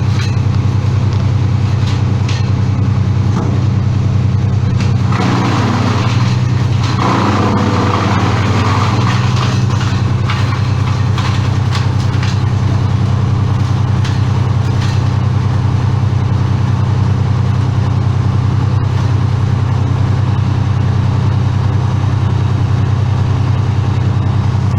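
A large engine running steadily at a constant low speed, like idling machinery, with a short burst of noisier rustling or scraping sound about five to nine seconds in.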